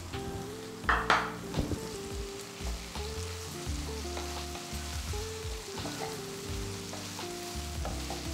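Small prawns sizzling in hot oil and masala in a nonstick frying pan, stirred and scraped with a wooden spatula, with a louder burst of sizzling about a second in as the last prawns are tipped from the bowl into the pan.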